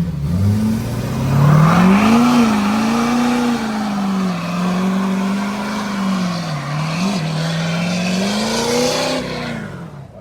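Truck engine held at high revs, rising and dipping, with the hiss and squeal of tyres spinning in a burnout; the revs drop off just before the end.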